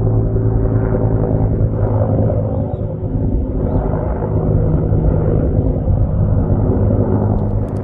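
An engine running steadily at an even pitch, loud and close.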